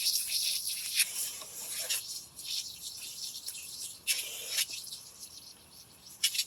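Scraping, rattling and clicking of small metal parts and hand tools being worked on a lawn mower, with a few sharper clicks.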